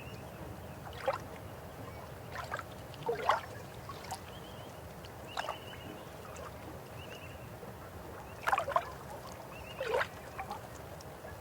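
River water flowing steadily, with about half a dozen louder gurgles and splashes breaking through at irregular moments, and a few short high chirping trills in the background.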